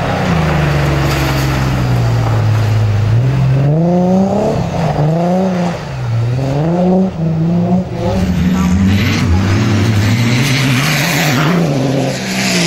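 Rally car engine at full throttle, its pitch climbing and dropping several times as it accelerates, shifts and lifts off through corners, with tyre and gravel noise.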